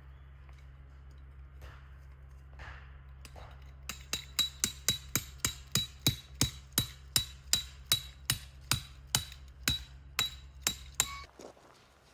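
Steady hammering on metal, about three strikes a second, each with a short metallic ring. The strikes begin about four seconds in, after a few faint taps, and end shortly before the close. A low hum underneath stops at the same moment.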